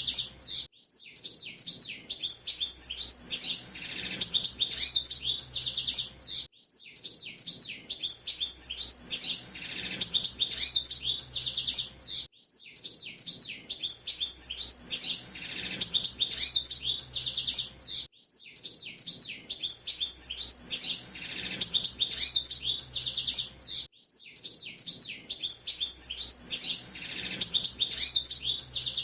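Hooded siskin singing: long, fast twittering phrases of high chirps and trills, each lasting about five seconds, with brief pauses between them at a steady repeat.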